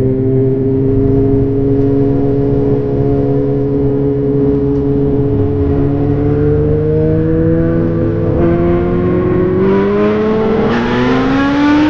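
A sport bike engine held at a high idle and revved, its pitch climbing slowly and steadily, then faster in the last few seconds, before cutting off abruptly.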